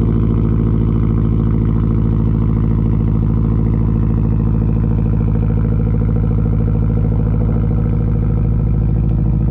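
2021 Subaru WRX STI's turbocharged 2.5-litre flat-four running steadily at its raised cold-start idle, heard through a titanium 3-inch catback exhaust with no mufflers or resonator. The idle is starting to tone down as the engine warms.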